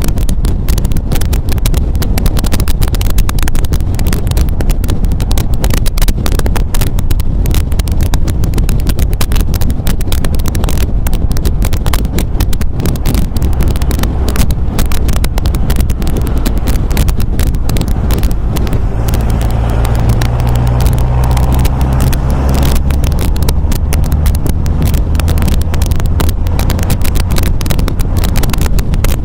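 MGA sports car's four-cylinder engine running steadily on the road, with rough wind buffeting on the microphone; a clearer, steadier engine note stands out for a few seconds about two-thirds of the way through.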